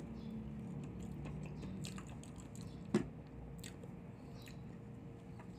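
A person chewing a mouthful of soft banana close to the microphone, with small wet mouth clicks and one sharper click about three seconds in, over a low steady hum.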